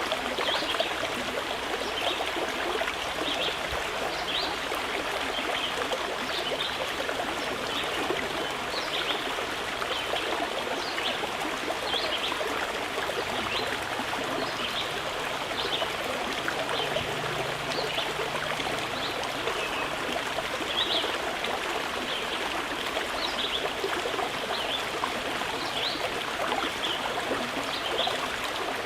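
Mountain river flowing steadily, with short high bird chirps scattered throughout.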